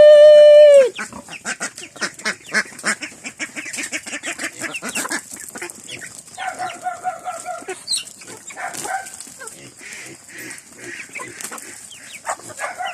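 A woman's long drawn-out "Eat!" feeding call ends about a second in, then a flock of chickens and ducks crowds in, clucking and calling busily over many quick short taps, with a couple of louder nasal calls partway through.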